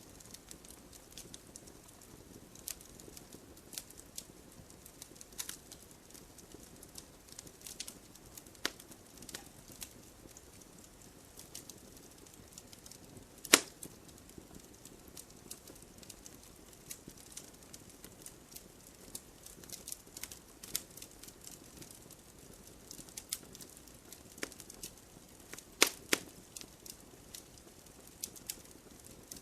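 Wood bonfire crackling: irregular sharp pops and snaps over a faint steady hiss, with one loud snap about halfway through and two more near the end.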